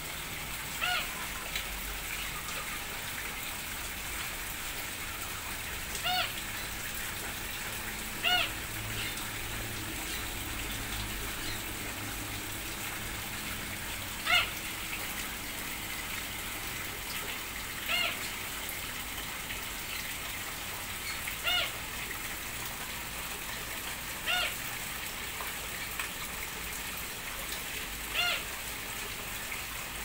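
A bird calling about ten times, each call short and pitched, spaced a few seconds apart, over a steady hiss of water.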